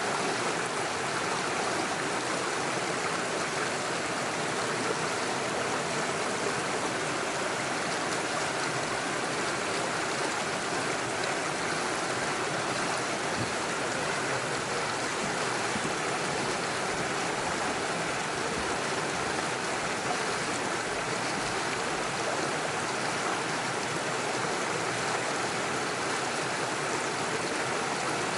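Small stream running over stones and small waterfalls, a steady, even rushing and splashing of water.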